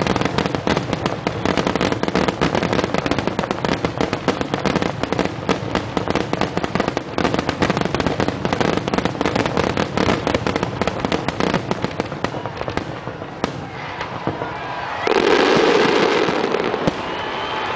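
Fireworks finale: a dense, continuous barrage of aerial shell bangs and crackles for about twelve seconds, thinning out, then a crowd cheering near the end.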